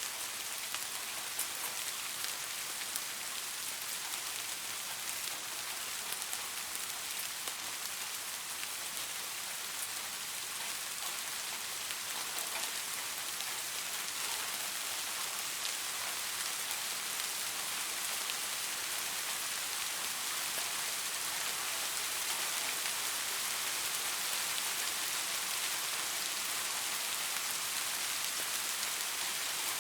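Steady rain falling on a surface, an even hiss with many fine drop patters, growing slightly louder in the second half.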